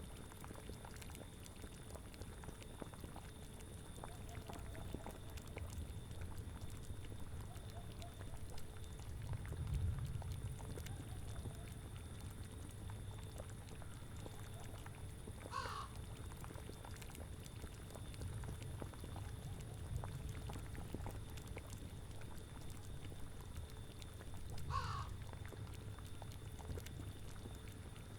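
Cauldron bubbling at a steady boil with a low rumble. Two short animal calls sound over it, one about halfway through and another near the end.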